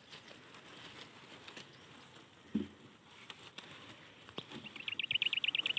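Faint scattered clicks and a single soft thump, then, starting about three quarters of the way in, a rapid high-pitched trill of about a dozen even pulses a second from a calling animal.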